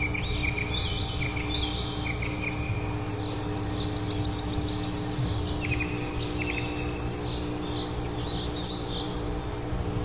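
Several songbirds chirping and singing, with fast repeated trills around the middle, over a steady low hum.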